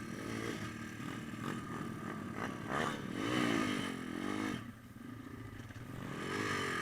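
Small pit bike engine revving up and easing off, its pitch rising and falling about three times, dropping away sharply a little after halfway.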